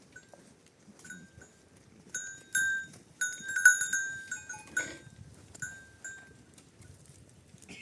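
Metal bells on a flock of goats and sheep, clinking and ringing irregularly as the animals move. The strikes come thickest and loudest in the middle and thin out toward the end.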